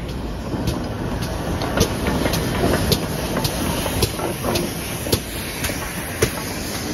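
Passenger train carriage running along the track: a steady rumble with sharp wheel clicks over the rail joints, about two a second.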